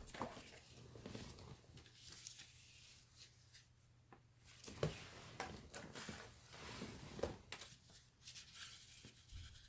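Light rustling and scattered taps of cut board airplane parts being handled and set down, over a faint steady low hum.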